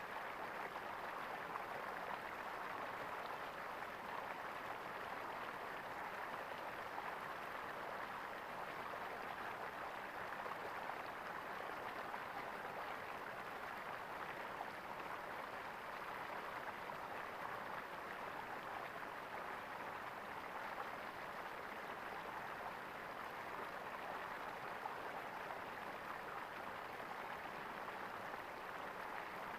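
Water in a stream gurgling steadily over stones, an even rushing without let-up.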